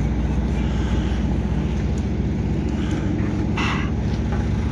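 Steady low drone of a running vehicle engine, with a short hiss about three and a half seconds in.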